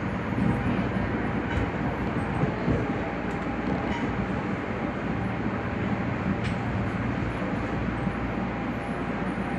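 Steady rumble and hum heard inside a Nagoya Municipal Subway Higashiyama Line 5050-series train, with a faint steady tone and a few light ticks.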